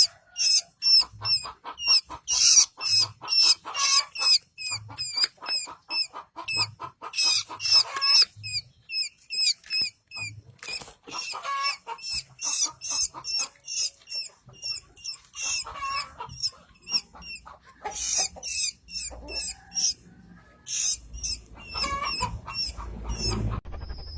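Baby birds chirping in rapid, high-pitched cheeps, many calls overlapping. The chirping pauses briefly twice.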